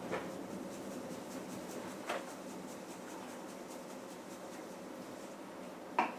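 Dried parsley being sprinkled by hand over a dish: faint scratchy rustling with a few soft taps, about two seconds apart.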